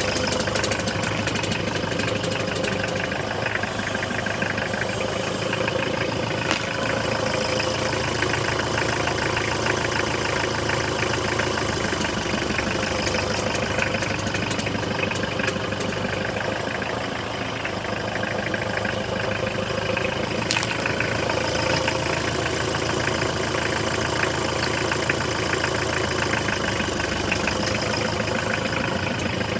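Car engine idling steadily, with two brief sharp clicks partway through.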